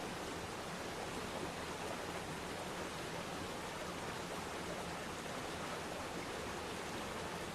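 Waterfall: falling water splashing into a pool, a steady even rush with no changes.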